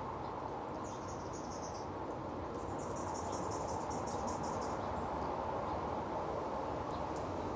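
Steady splash of a small bird-bath fountain's water falling onto rocks. A high, rapidly pulsed trill sounds twice over it in the first half.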